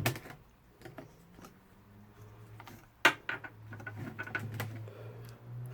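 Plastic clicks and knocks from a fabric conditioner bottle being handled and opened: a sharp click at the start, another about three seconds in, then a run of small clicks.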